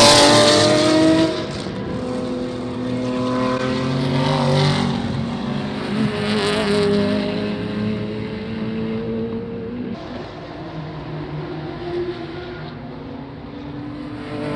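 Historic racing cars passing at speed one after another, engines at high revs. The loudest passes come at the start and about four and six and a half seconds in, followed by a quieter, steadier engine sound.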